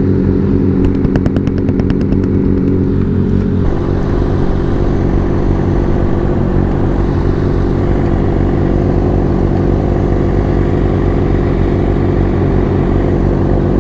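Motorcycle engine running steadily while riding, with wind rushing over the microphone. About four seconds in, the wind noise grows louder as the engine note changes, after a run of faint ticks.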